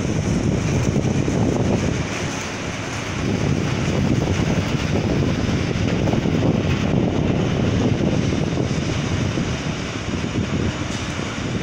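Train of bogie tank wagons rolling past on the rails: a steady rumble of wheels on track.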